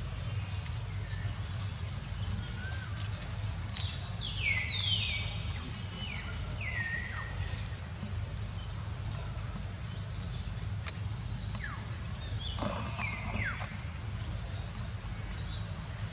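Birds chirping: a scatter of short high notes throughout, with a run of quick falling whistles about four to seven seconds in, over a steady low rumble.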